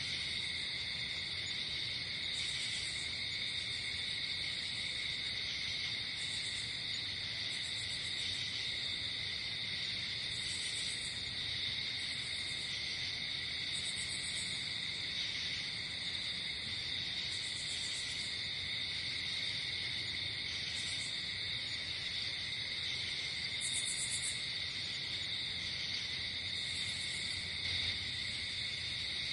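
Night-time chorus of crickets and other insects: a steady, even trilling, with short, very high-pitched chirp bursts coming in every one to three seconds.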